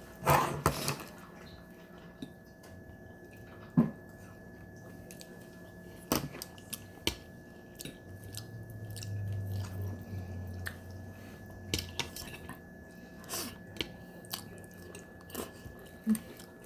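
Close-up eating sounds: chewing and smacking of food with scattered sharp clicks, typical of utensils on a plate, and a low hum for a few seconds in the middle.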